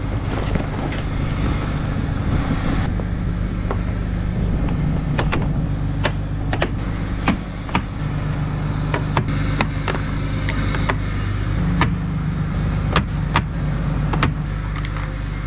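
Diesel truck engine running while driving, its low note stepping up and down several times with speed and gear changes, with scattered sharp clicks and rattles throughout.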